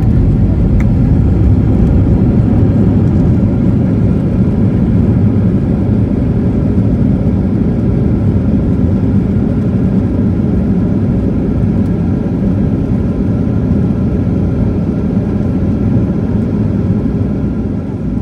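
Cabin noise inside a Boeing 737 airliner: a steady, loud low rumble of the engines and airflow, easing slightly near the end.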